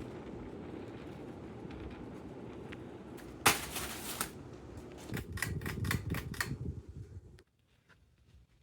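Hampton Bay Glendale 2 ceiling fan running with a steady low whoosh. About three and a half seconds in comes one loud click, then a quick run of clicks and knocks about a second and a half later. The sound then cuts off abruptly to near silence.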